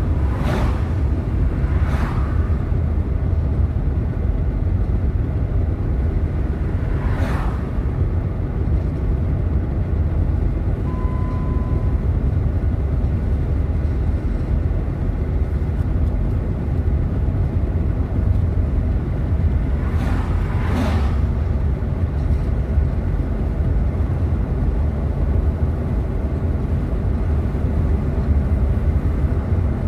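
Steady low rumble of a car driving slowly, heard from inside the car, with a few brief whooshes. A short beep sounds about a third of the way through.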